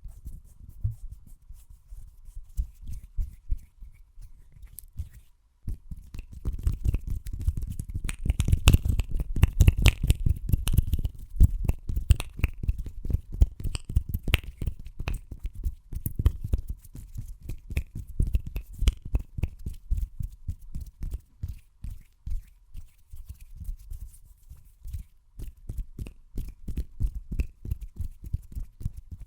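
Fast hand sounds: a rapid run of quick taps, pats and rubbing strokes of the hands, quieter at first and busier and louder from about six seconds in.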